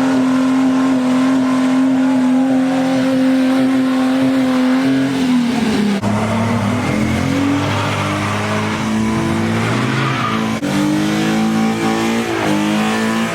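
Car engine held at high revs for about five seconds, then the revs drop and climb again several times, with tyres squealing on the pavement.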